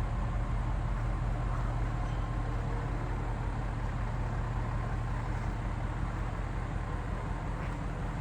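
2016 Audi S6's twin-turbo 4.0-litre V8 idling steadily.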